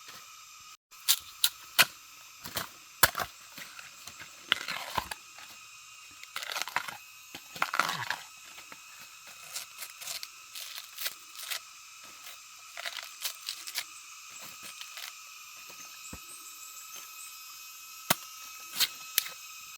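Irregular sharp cracks and snaps with bouts of tearing and rustling, as bamboo shoots are broken off and stripped by hand.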